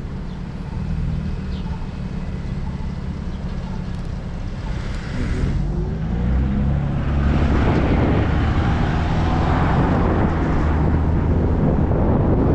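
Wind buffeting the microphone on a moving bicycle, over a steady low rumble, swelling louder and brighter about halfway through.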